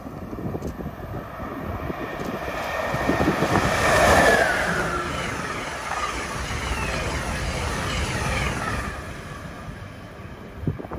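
Amtrak train passing at speed. The rushing noise builds to a peak about four seconds in, where a whine drops in pitch as the head end goes by. The cars keep rushing past for several seconds, and the sound fades near the end.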